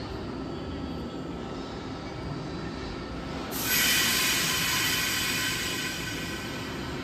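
Railcar at a station platform with a steady low rumble. About three and a half seconds in, a high squealing hiss with several steady tones sets in. It is the loudest part and fades after a couple of seconds.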